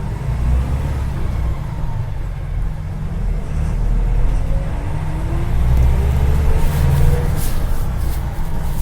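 Agrale micro-bus engine running under way, heard from inside the bus: a steady low rumble, with a whine rising in pitch over a few seconds in the middle. A few brief hissy noises come near the end.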